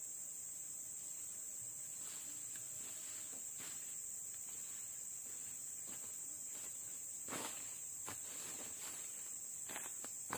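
Steady high-pitched insect chorus, crickets or similar, keeping up one unbroken shrill note. Over it come irregular rustles and light crunches of footsteps through leaf litter and undergrowth; the loudest is about seven seconds in, with more near the end.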